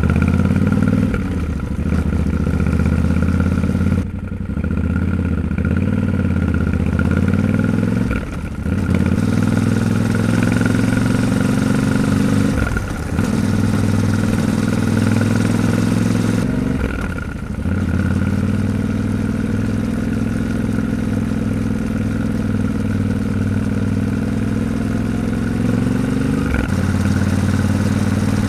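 Yamaha Ténéré 700's parallel-twin engine running under way. Its pitch drops and climbs again four times in the first two-thirds, then settles to a steady cruise.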